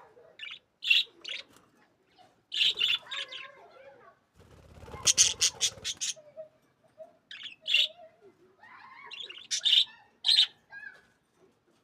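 Pet budgerigars giving short sharp chirps and squawks. About five seconds in there is a quick run of clicks.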